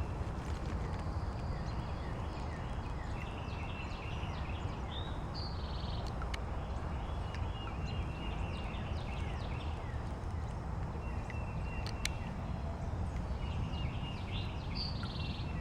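Several songbirds chirping and singing in short, scattered notes, with a buzzy trill about five seconds in and again near the end, over a steady low rumble.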